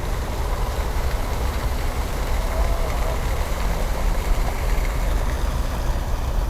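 Steady low outdoor rumble with a hissy haze above it; no single event stands out.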